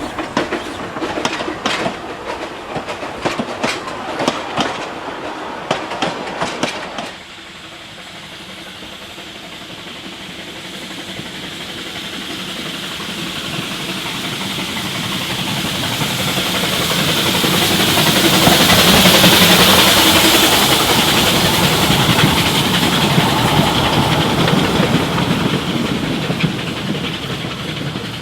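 A train's wheels clicking rapidly over rail joints; the sound cuts off suddenly about seven seconds in. Then a steady rushing train sound swells to a peak around two-thirds of the way through and fades as it passes.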